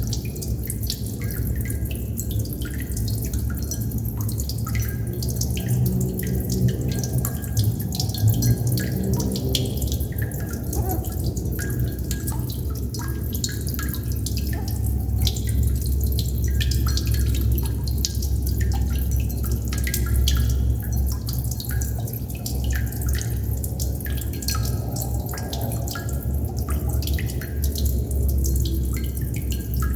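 Water droplets dripping irregularly, many small plinks a second, some with a short ringing pitch, over a steady low rumble.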